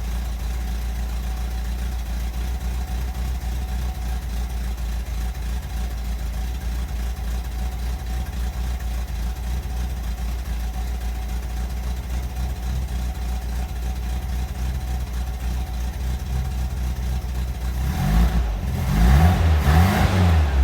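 Vintage Speedster (Porsche 356 replica) engine idling steadily, then revved up and back down a few times near the end.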